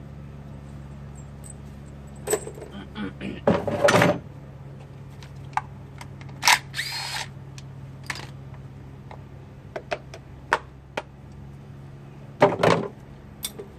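A power tool running in short bursts, about three times, as bolts are spun out of the engine's front cover, with sharp metal clicks and clinks of tools and parts between, over a steady low hum.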